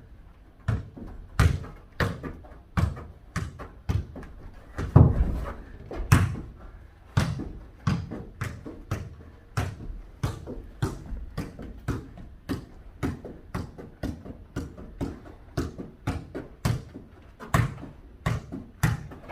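A ball being kicked back and forth and bouncing on a hard floor during a mini jokgu (foot volleyball) rally: a long run of sharp thuds, two or three a second, the loudest about five and six seconds in.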